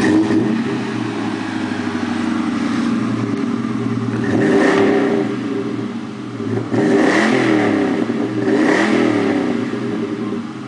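Ford Mustang GT's V8 exhaust running and being revved: three blips of the throttle about four and a half, seven and nine seconds in, each rising and falling back to a steady run between.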